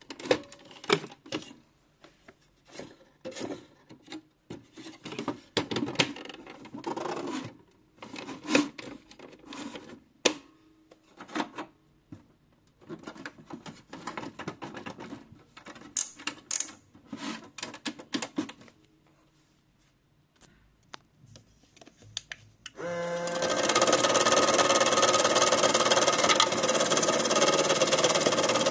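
A run of irregular clicks, knocks and rattles, then about 23 s in an AEG washing machine starts running, with a loud, steady machine noise and a motor whine.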